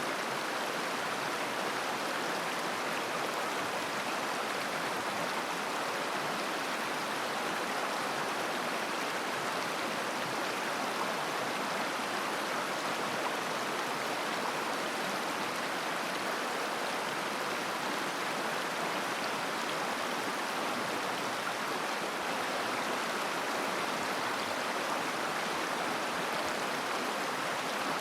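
River water flowing over rocks: a steady, even babbling rush with no breaks.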